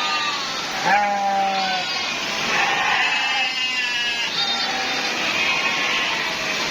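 Several goats bleating, their wavering calls overlapping at different pitches, with a louder, lower bleat about a second in.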